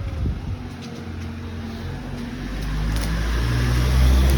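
Strong wind buffeting the microphone with a low rumble, mixed with a car engine running nearby that grows louder near the end.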